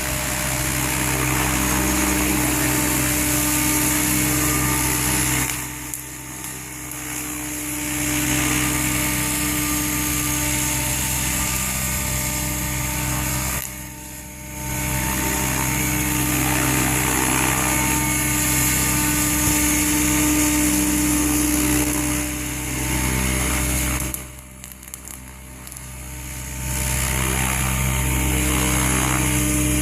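Electric SAB Goblin 700 radio-controlled helicopter in flight: a steady motor and rotor whine with a deep rotor hum. The level drops sharply three times, about six, fourteen and twenty-four seconds in, then comes back up.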